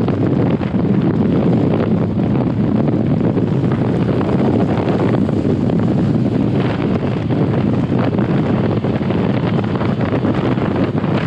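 Steady, loud wind noise buffeting a helmet-mounted GoPro's microphone while riding a motorcycle, drowning out the engine.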